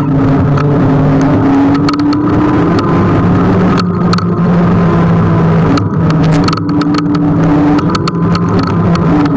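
Riding noise on a Kugoo G1 electric scooter: a steady hum that drifts slowly up and down in pitch over a rushing road noise, with scattered short clicks.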